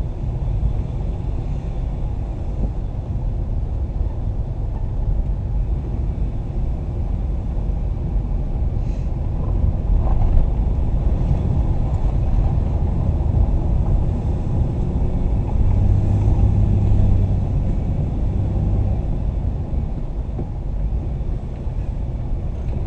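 Van's engine and road noise heard from inside the cabin, a continuous low rumble while driving; a low engine hum stands out for a few seconds about two-thirds of the way through.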